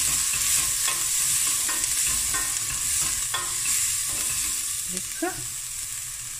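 Diced vegetables frying in oil with a steady sizzle in a stainless steel pot, while a wooden spoon stirs and scrapes them around the pan bottom with small clicks and scuffs. The stirring eases off near the end and the sizzle carries on.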